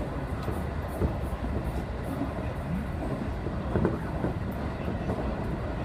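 Electric train running at speed, heard from behind the driver's cab: a steady rumble of wheels on rails with a few knocks, about one second in and again near four seconds in.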